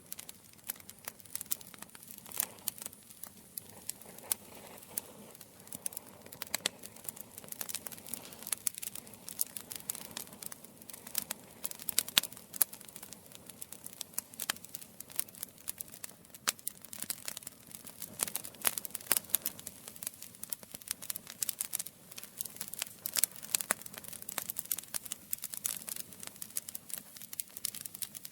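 Campfire crackling: a steady run of irregular sharp pops and snaps over a soft low hiss.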